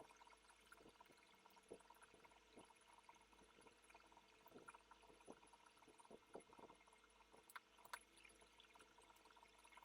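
Near silence, with faint scattered small clicks and taps of small phone parts and tools being handled.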